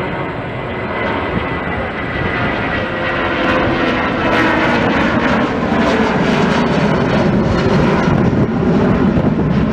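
Jet airliner passing near the airport, its engines a loud rushing roar with a faint whine that grows louder over the first half and then holds.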